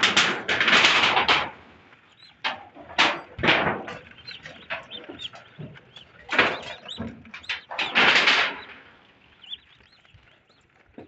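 Farmed ducks making a run of loud, rough, noisy calls: the loudest come at the start, about three seconds in, and around six to eight seconds in, with smaller sounds between. It all dies down over the last couple of seconds.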